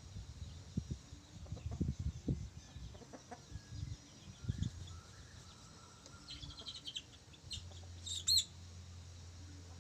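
Chickens clucking and chirping, with a short high call about eight seconds in, over scattered low knocks in the first half.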